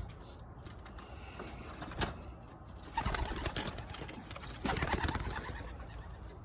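Domestic pigeons at their nest in a cage, with two short noisy flurries about three and about five seconds in.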